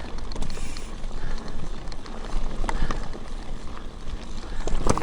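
Mountain bike riding over a rocky dirt trail: a steady low rumble from the tyres, with scattered clicks and knocks from the bike, the sharpest just before the end.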